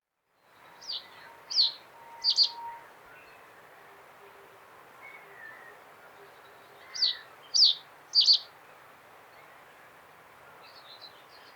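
Common reed bunting singing: two short phrases about five seconds apart, each of three sharp notes sweeping downward, the last note of each phrase doubled, over a faint steady hiss.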